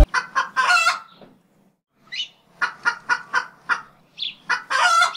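A bird calling in short clucks, about a dozen of them in two groups with a pause of about a second between.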